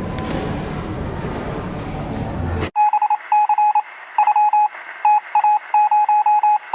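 A busy wash of background noise, then an abrupt cut about three seconds in to a string of electronic beeps at a single pitch. The beeps come in short and long pulses at an irregular rhythm and sound thin, like a telephone line.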